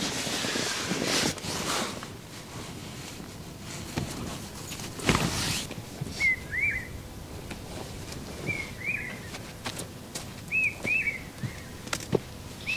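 Rustling of a nylon tent and bedding as someone moves inside it, with a louder rustle about five seconds in. From about six seconds in, a bird calls with short rising-and-falling chirps, mostly in pairs, every second or two.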